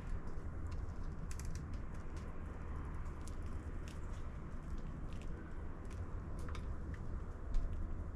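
Irregular sharp ticks of seed being picked at and cracked inside a 3D-printed plastic bird feeder, over a steady low hum, with one louder tick near the end.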